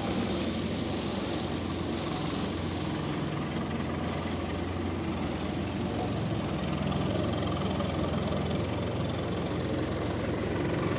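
A heavy engine or machine running steadily with a low, even hum and no change in speed.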